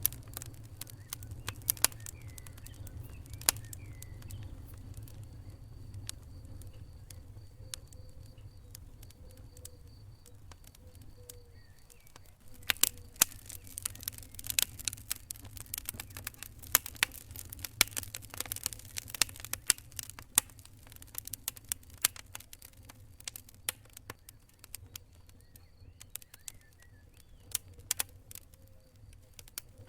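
Wood fire crackling: irregular sharp pops and snaps over a steady low rumble, growing busier about halfway through, then thinning out again.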